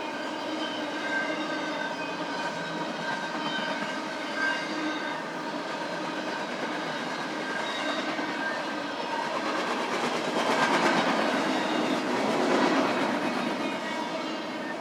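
BNSF freight train cars rolling past: a steady clatter of wheels on the rails with faint high ringing tones from the wheels, growing louder for a few seconds about two-thirds of the way through.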